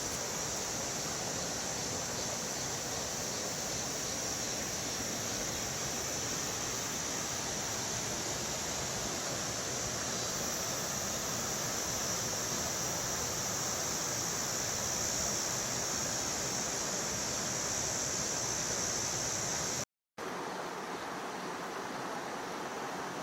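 Mountain stream water rushing steadily over rocks, with a steady high-pitched buzz above it. About 20 seconds in the sound cuts out for a moment, and when it resumes the high buzz is gone and only the water noise remains.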